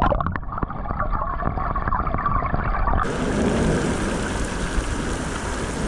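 Steady rush of river water, sounding dull for the first three seconds and then clear, with a few sharp knocks in the first second.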